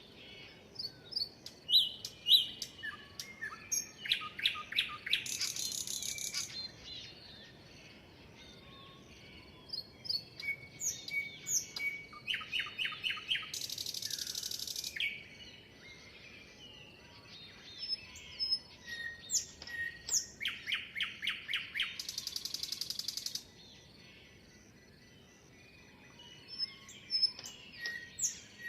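Songbirds singing. One bird repeats the same song about every eight seconds: a run of clear notes ending in a fast, high buzzy trill. Other short chirps come in between.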